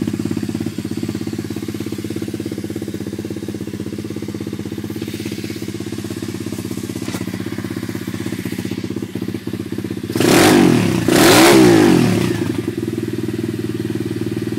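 125cc Lucky MX pit bike engine idling steadily, blipped twice in quick succession about ten seconds in, each rev rising and falling back before it settles to idle again.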